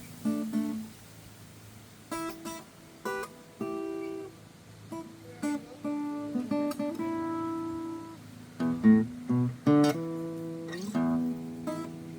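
Steel-string acoustic guitar played blues-style: single plucked notes and brief strummed chords in phrases, with short pauses between them.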